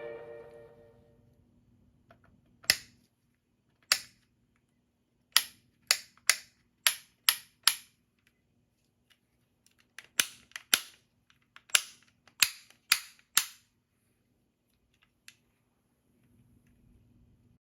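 Sharp plastic clicks, about fifteen in two quick runs, from a Bearbrick collectible figure being handled, with a faint steady hum underneath.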